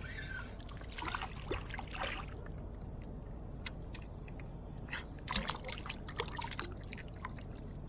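Water splashing and trickling around a kayak, with clusters of small splashes and clicks about a second in and again around five seconds in, over a steady low rumble.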